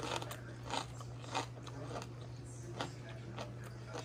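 A person chewing food close to the microphone: soft, irregular clicks and crunches of chewing, over a steady low hum.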